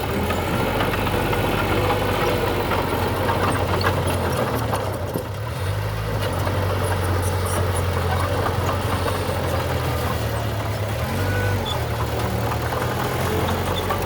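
Diesel engine of a working earthmoving machine running steadily with a low rumble, with a brief drop about five seconds in and scattered clanks and rattles around the middle.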